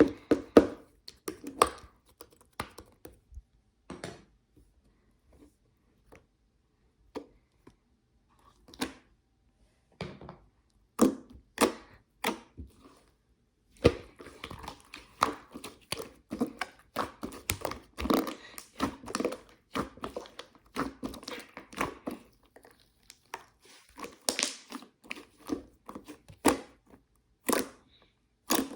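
Slime being squeezed, pressed and stretched by hand, making sharp pops and crackles. They are scattered at first and come thick and fast from about halfway on.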